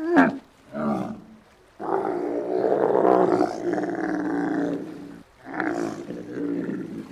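Loud pitched animal calls: a short call at the start, another about a second in, then a long call of about three seconds from about two seconds in, and a shorter call near six seconds.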